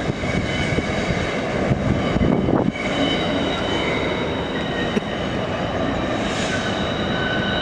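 Norfolk Southern freight train rolling past with a steady rumble, its wheels giving off several high, steady squeals that come and go.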